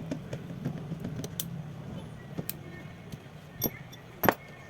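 A few sharp clicks and taps of small tools on phone parts during disassembly, loudest near the end, over a low background hum.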